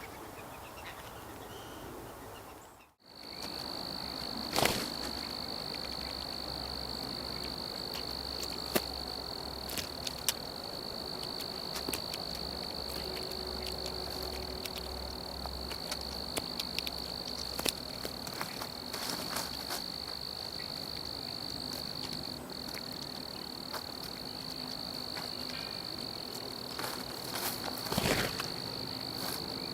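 Steady, high-pitched insect trill held without a break, starting about three seconds in, with scattered small clicks and two louder knocks, one early and one near the end.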